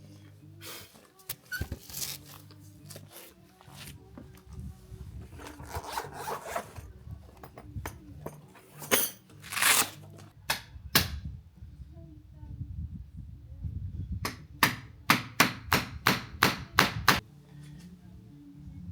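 Wooden boards being handled, scraped and knocked, ending in a quick run of about nine sharp knocks near the end.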